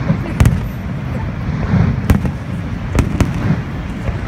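Aerial firework shells bursting in a display: a sharp bang near the start, another about two seconds in, and two in quick succession about three seconds in, over a continuous low rumble of further bursts.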